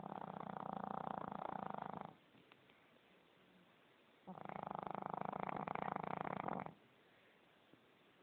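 An overweight dog snoring in its sleep: two long, rattling snores of about two seconds each, with roughly two seconds of quiet between them.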